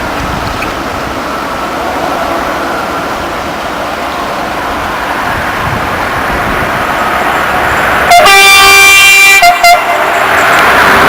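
A train approaching, its running noise growing louder, then sounding its horn: one long blast of about a second and a half, eight seconds in, followed quickly by a short blast.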